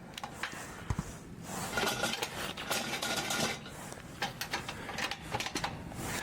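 Clinks and knocks of small hard items, like metal gear or dishes, being handled at a steady pace.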